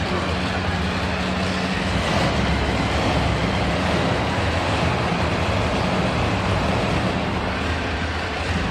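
Monster truck engine running at a steady pitch, with a loud wash of noise over it.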